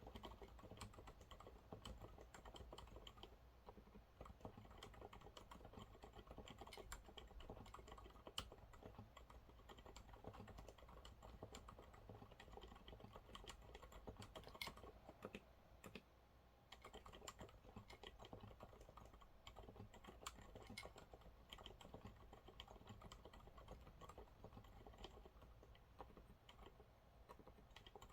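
Monsgeek MG108W mechanical keyboard with TTC silent brown switches being typed on continuously: a quiet, steady stream of soft, muted keystrokes, with a short lull about halfway through.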